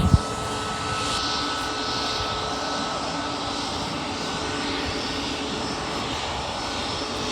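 Aircraft engines running with a steady rumble and a faint steady whine. A short low thump comes at the very start.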